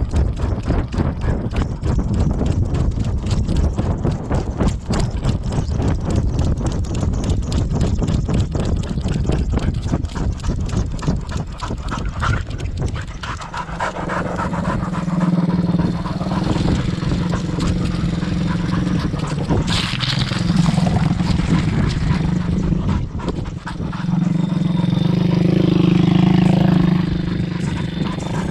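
Thumpstar pitbike's single-cylinder engine running, with rapid pulsing at first, then settling into a steady low note from about halfway through.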